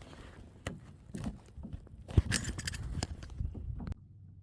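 Knocks, clicks and scrapes of gear being handled on a kayak, with one sharp thump about two seconds in; the sound cuts off abruptly near the end, leaving a faint low hum.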